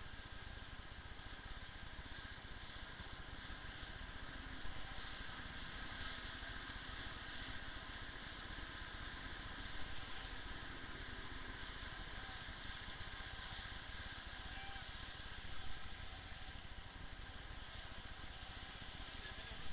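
Motorboat engine running steadily, with a continuous hiss of wind and water over it.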